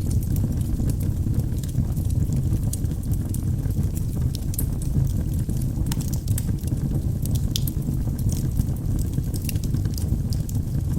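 Wood fire burning in a fireplace: a steady low rumble of the flames with irregular small crackles and pops from the burning logs.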